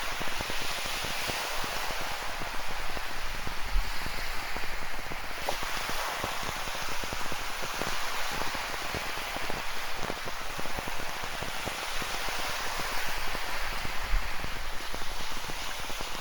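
Steady rain falling, drops pattering in a dense hiss, with ocean waves washing on the shore underneath and swelling and easing every few seconds.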